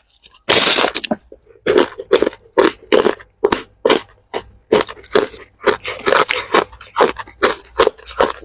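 Hard ice cubes being bitten and chewed close up: one long loud crunch about half a second in, then a steady run of sharp crunches, about two or three a second, as the ice is chewed.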